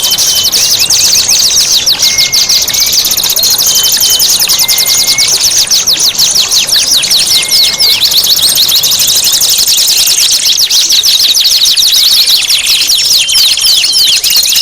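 Recorded songbird masteran track: loud, rapid, high-pitched chattering trills, with short whistled notes recurring about every second and a half.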